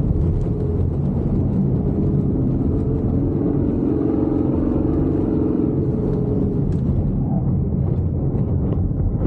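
Truck engine running under load with a low rumble as it drives on a dirt track; its pitched engine note fades about two-thirds of the way through.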